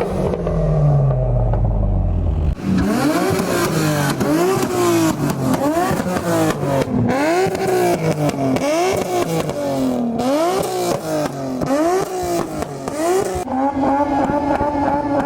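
A car engine revved hard over and over, its pitch rising and falling about once a second with crackling over it, then held at a steady high pitch near the end. Before the revving starts, the pitch drops away in one falling sweep.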